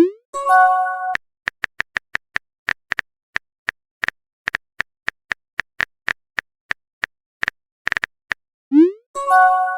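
Phone text-message sound effects: a steady patter of keyboard tapping clicks, with a message notification (a quick rising swoop and a short chime) at the start and again near the end.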